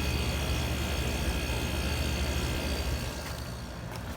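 1984 Hotpoint (GE-built) 8400 BTU window air conditioner running on low cool: the compressor's steady, quiet hum under the rush of fan air. About three seconds in, the airy hiss drops off and softens.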